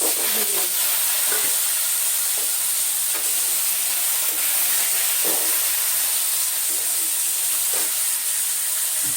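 Thinly sliced potatoes and raw green banana frying in hot oil in a pan: a loud, steady sizzle that starts suddenly, with a spatula stirring and scraping now and then.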